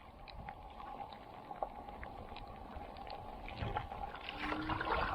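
Light rain pattering on the sea and kayak, many small scattered drips, with paddle splashes getting a little louder near the end.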